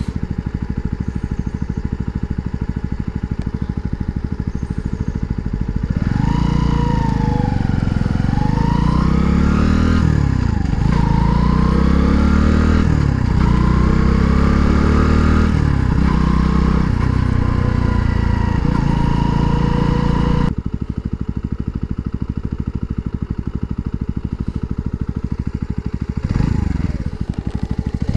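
Mutt Razorback 125 motorcycle's single-cylinder engine running with an even pulsing beat, then louder for about fourteen seconds with its pitch rising and falling again and again, cutting off abruptly and going back to the steady beat; a short rise and fall near the end.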